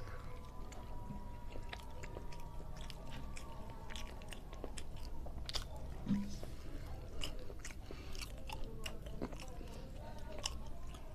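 A man chewing a handful of rice and side dishes, with many irregular wet mouth clicks.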